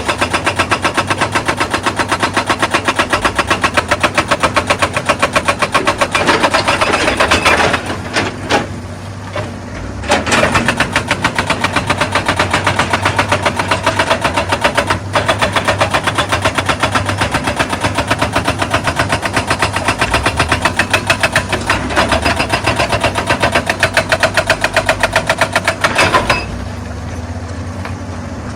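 Excavator-mounted hydraulic rock breaker hammering stone in rapid, even blows over the excavator's running diesel engine. The hammering stops for about two seconds some eight seconds in, resumes, and stops again near the end, leaving the engine running.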